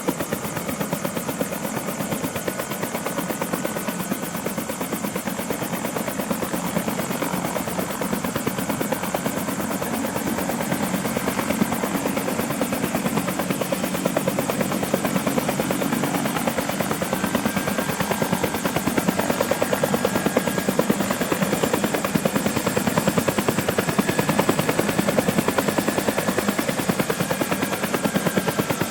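Bell 212 Twin Huey helicopter running on its twin-pack turboshaft engines, its two-bladed rotor giving a fast, even chop over a steady turbine whine. About halfway through the whine edges higher and the sound grows a little louder.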